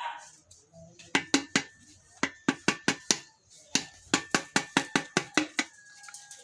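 Rapid metal taps, over twenty in three quick runs, with a faint metallic ringing: the locking ring of a Honda XRM 125's fuel-gauge float unit being knocked round on the tank with a tool to loosen it.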